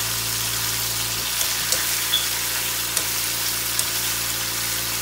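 Sliced chicken breast sizzling steadily as it fries in hot oil in a frying pan, with a few light ticks and pops.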